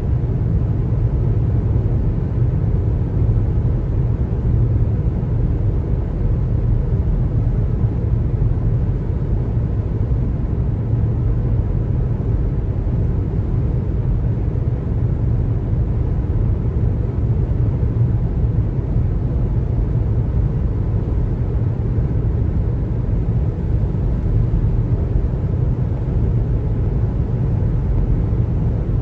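Steady low rumble of road noise from a car driving at a constant speed: tyres on pavement and the engine, with no change throughout.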